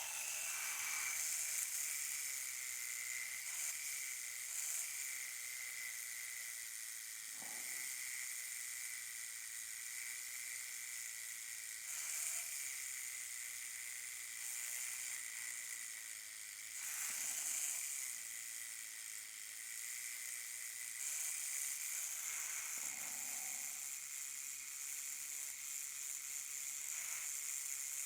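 Small high-speed rotary tool grinding hardened steel epoxy putty on a plastic slot car body: a steady thin whine under a high, hissing abrasion that gets louder for a moment every few seconds as the bit bites.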